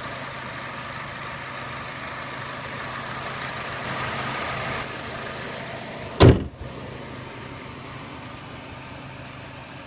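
Chevrolet Sonic running at a steady idle, then a car door shut with one loud slam about six seconds in, after which a quieter steady hum remains.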